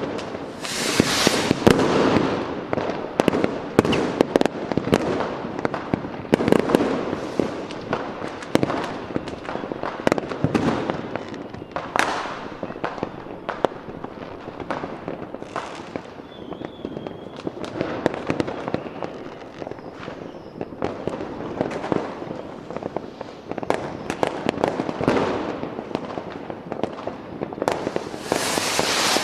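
A fireworks display: a dense, continuous run of bangs and crackling firecrackers, with louder hissing bursts about a second in and near the end and a brief faint whistle in the middle.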